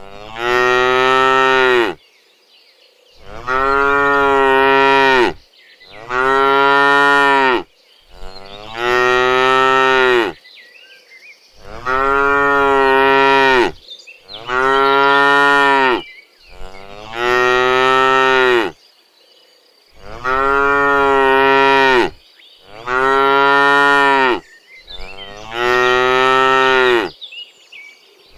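Cattle mooing loudly, about ten long moos in a row, each lasting around two seconds, with short pauses between them.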